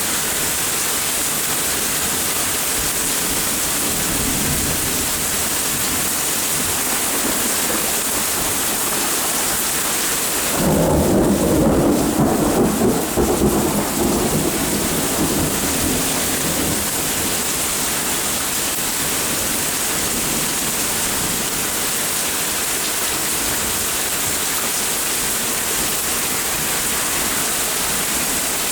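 Steady rain with a roll of thunder about ten seconds in, rumbling for a few seconds and then fading away.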